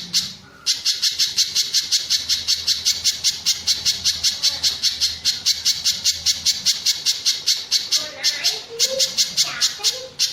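Spiderhunter (pijantung gunung) calling: a fast, even run of sharp high notes, about six a second, broken briefly just after the start and again about eight seconds in.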